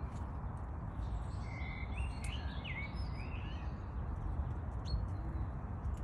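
A small bird chirping a short run of quick calls about one and a half to three seconds in, over a steady low background rumble.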